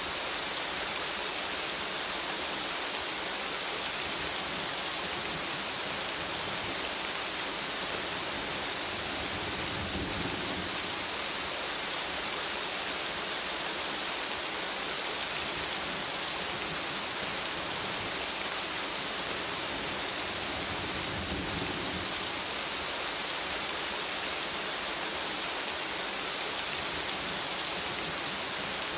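Steady rain falling on a forest canopy, an even hiss. A low rumble swells briefly about ten seconds in and again a little after twenty seconds.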